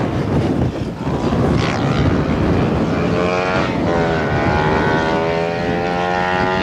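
Small electric motor and propeller of a foam RC plane running up: a whine that starts about three seconds in, dips briefly and then holds steady. Strong wind buffets the microphone throughout.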